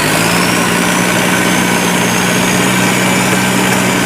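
Small diesel tractor engine running steadily at high revs while the tractor works its way out of deep mud. A thin high whine rises slightly at the start and then holds.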